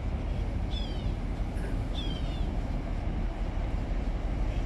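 Two short, high, falling bird calls, about one and two seconds in, over a steady low rumble.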